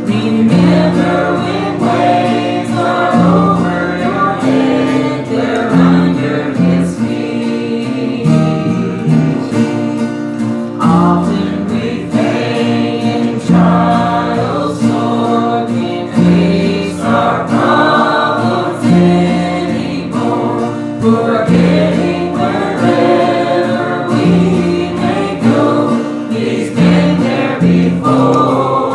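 Congregation singing a gospel hymn together, with guitar accompaniment.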